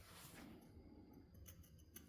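Near silence: quiet room tone with a few faint small ticks.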